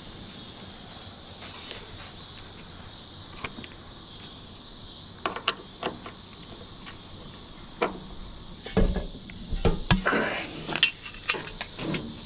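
Scattered clicks, taps and rustles of hands working weatherstripping and trim on a pickup truck door, with a cluster of heavier knocks and low thumps about nine seconds in, over a steady high hiss.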